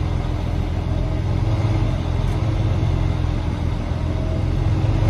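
Training semi-truck's diesel engine running steadily at low speed, a constant low rumble.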